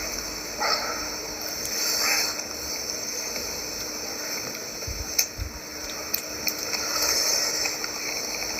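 Steady rush of water flowing at a drainage channel, with a faint steady hum under it, a couple of brief louder swells early on, and a few sharp clicks later.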